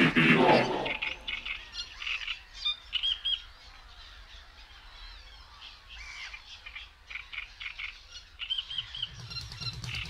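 Birds chirping, with short high calls repeated in quick runs throughout.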